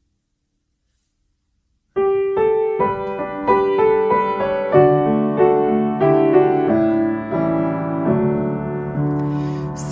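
Silence, then about two seconds in a piano starts playing an instrumental introduction of evenly paced notes over sustained low chords. A brief hiss comes near the end.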